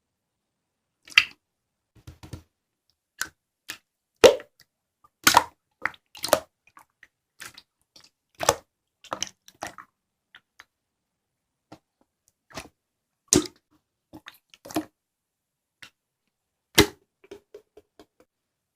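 Slime being squeezed and pressed by hand, giving irregular sharp pops and clicks with silence between, a handful of them much louder than the rest.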